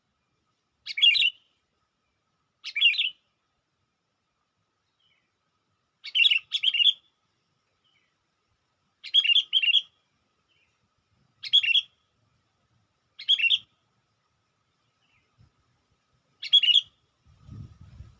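Sooty-headed bulbul (kutilang) giving short, bright call phrases every two or three seconds, some single and some doubled, in a lure recording used to call in wild bulbuls. A brief faint low rumble comes near the end.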